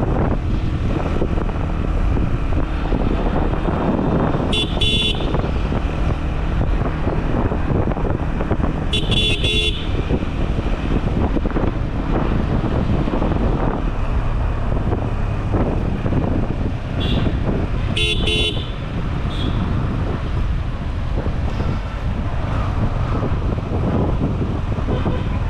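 Vehicle horns tooting in city traffic over the steady rumble of a motorcycle ride: short blasts about five seconds in, again around nine seconds, and a couple more around seventeen to eighteen seconds.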